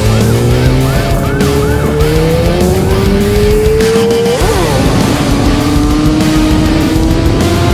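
A police siren yelps for about the first second and a half, under a motorcycle engine accelerating hard. The engine note rises steadily, drops as it shifts up about four seconds in, and climbs again.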